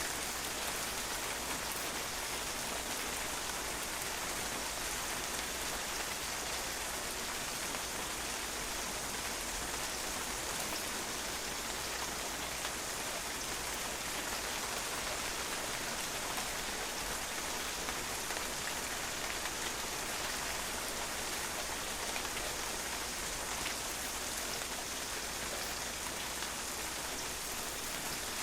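Steady rain falling on a patio, a dense even patter of drops hitting the hard surface.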